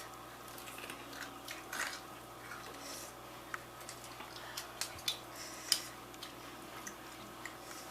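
Scattered light clicks and taps of dishes and cutlery being handled at the table, the sharpest a little before six seconds in, over a faint steady hum.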